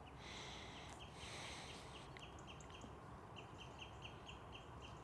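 Faint outdoor ambience: a small bird repeating short high chirps, about three a second, with two brief soft rustles in the first two seconds.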